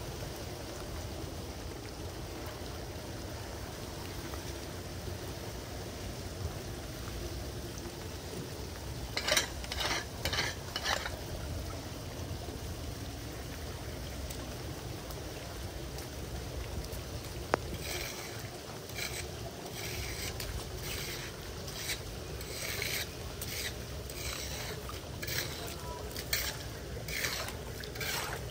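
Floodwater running steadily into a clogged street drain, with scraping strokes as debris is cleared from it: three strokes about nine seconds in, then a quicker run of strokes from about eighteen seconds on.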